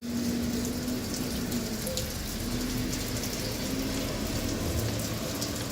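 Steady rain falling, an even hiss with scattered drops ticking, and a faint low hum underneath.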